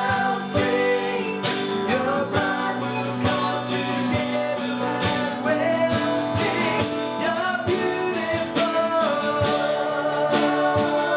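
Worship band music with guitar and a steady beat.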